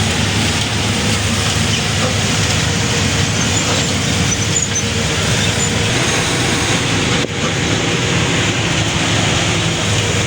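New Holland combine harvester running at work: a steady, loud engine drone under a dense wash of machinery noise, with a brief drop about seven seconds in.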